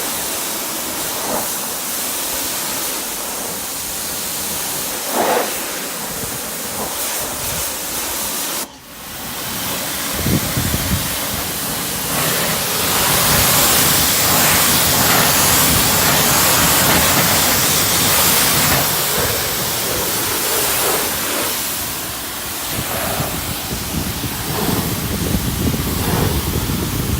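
Steady hiss of water spraying. It breaks off abruptly about nine seconds in, then comes back louder with more low rumble.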